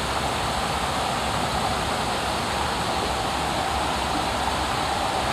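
Waterfall rushing steadily close by, an even roar of falling water.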